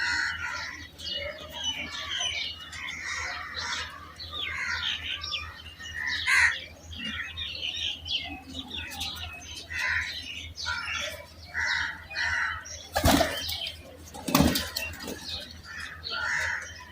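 Young pigeons squeaking again and again in short chirps, with two loud bursts of wing flapping near the end.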